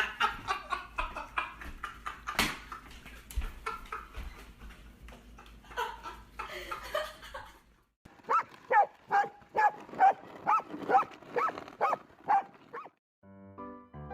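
A dog barking in a quick run of about ten short, high barks, about two a second, after several seconds of scattered clicks and knocks.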